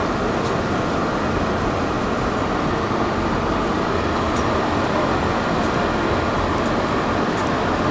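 Airport shuttle train in motion, heard from inside the carriage: a steady rumble and rush of the running train, with a few faint high ticks in the second half.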